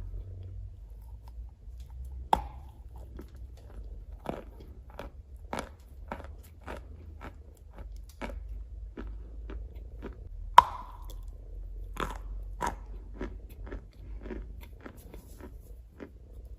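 Gray clay being bitten and chewed: two loud sharp snaps of biting off pieces, about two seconds in and near the middle, among a steady run of dry crunches about two a second.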